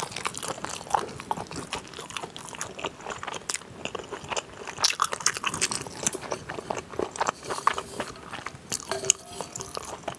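Close-miked chewing of a spicy chicken dumpling: a dense run of small wet mouth clicks and smacks at an uneven, quick pace.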